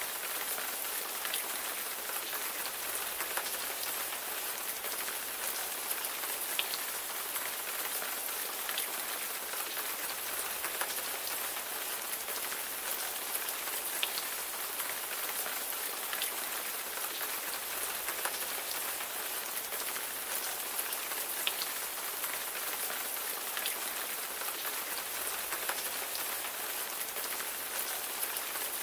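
Steady rain falling on a surface: an even hiss with scattered sharper drop ticks.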